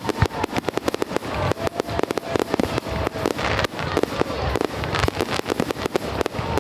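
Fireworks going off in a rapid, dense string of sharp cracks and pops, several a second.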